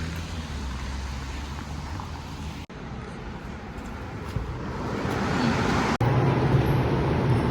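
City street traffic: a steady low rumble of passing vehicles, growing louder a little past halfway, broken twice by abrupt cuts.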